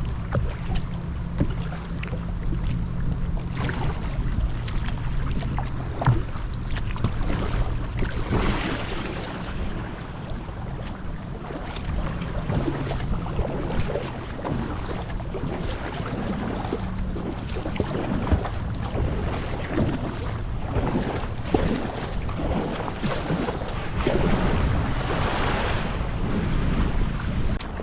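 Water splashing and lapping around a paddled kayak, with wind rumbling on the microphone. The splashing swells briefly about a third of the way in and again near the end.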